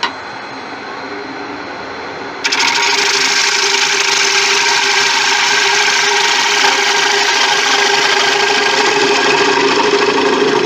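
Laguna wood lathe running, then about two and a half seconds in a turning tool bites into the spinning tiger wood and a steady, loud cutting hiss runs on under the motor's hum: a clean finishing cut across the inside of a large bowl.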